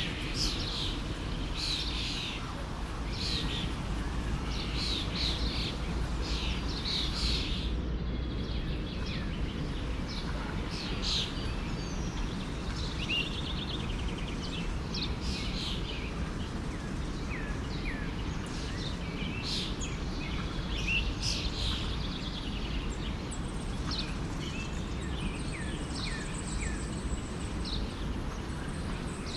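Small songbirds chirping and calling in quick, overlapping bursts over the steady rush of a forest stream. The bird calls break off for a moment about eight seconds in.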